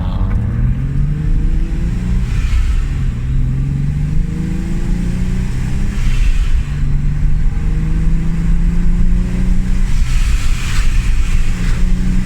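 Turbocharged car engine accelerating gently through the gears. Its pitch rises and then drops at each of about three shifts, with a short whoosh at each shift. The engine is freshly rebuilt, still in its break-in period, and is not being revved hard.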